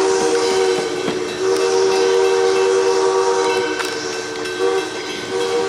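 Steam locomotive whistle blowing long blasts, a chord of several steady tones, broken briefly about a second and a half in and again near the end.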